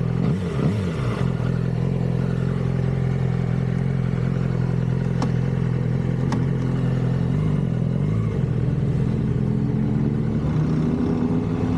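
2006 Yamaha R6's stock inline-four engine idling steadily through its standard exhaust. Two short clicks come about five and six seconds in.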